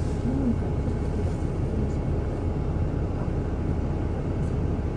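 Interior of a moving city bus: steady low engine and road rumble.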